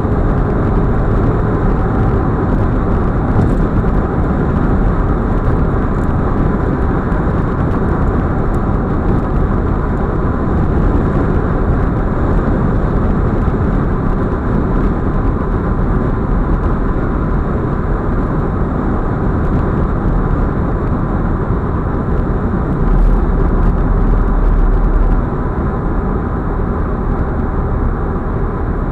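Audi A4 45 TFSI quattro driving at highway speed: a steady mix of tyre and wind noise. Late on, a deeper rumble swells for about two seconds, then drops back.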